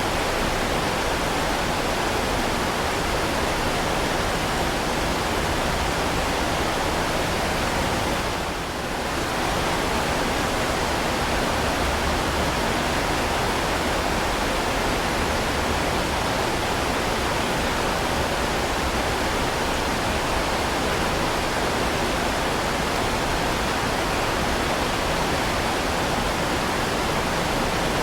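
Steady heavy rain: an even, dense hiss of downpour, dipping briefly in level about eight and a half seconds in.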